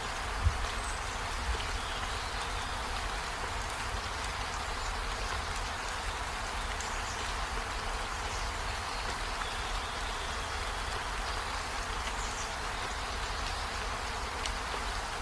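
Steady rain falling, an even hiss of drops. One short thump comes about half a second in.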